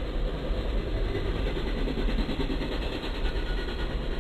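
Intermodal freight train rolling past, its double-stack container cars and trailer-carrying flatcars giving a steady noise of wheels on rail.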